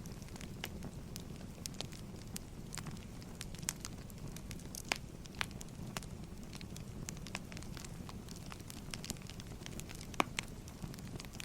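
Firewood burning: a steady low rumble with irregular crackles and pops, one louder pop near the end.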